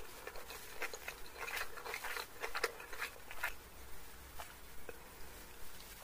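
Close-miked chewing of a mouthful of chow mein noodles: quick wet mouth clicks and smacks, dense for the first few seconds, then sparser. A few light clicks later as a steel fork gathers noodles on a paper plate.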